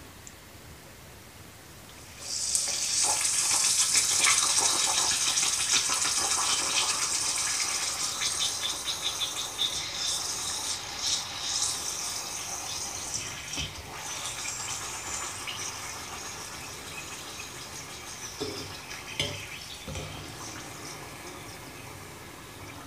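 Papadam deep-frying in hot oil: a loud sizzle with crackling starts suddenly about two seconds in, then slowly dies down as the wafer puffs up.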